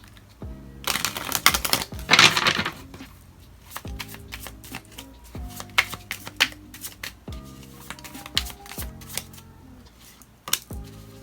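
Tarot cards being shuffled: a dense rustle of cards for about two seconds near the start, then scattered taps and short card slides. Soft background music with held notes plays throughout.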